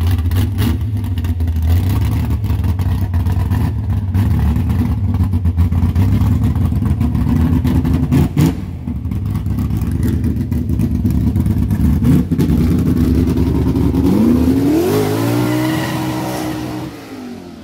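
Car engine held at high revs, then revving up with a rising pitch about fourteen seconds in before easing off near the end.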